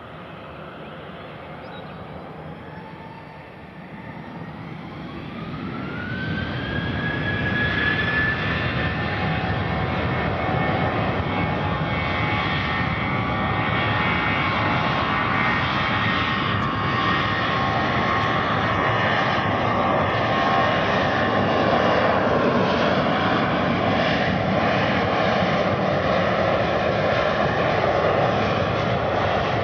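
Jet airliner's engines spooling up to takeoff thrust: a whine rises in pitch over the first several seconds while the rushing noise grows loud, then it holds steady and loud as the aircraft starts its takeoff roll.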